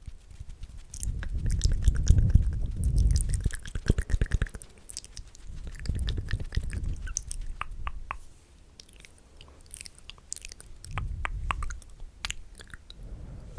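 Close, wet ASMR mouth sounds and mic licking right on the microphone: low rumbling bumps from the mouth touching the mic, with many small wet clicks and crackles, thickest near the start and again toward the end.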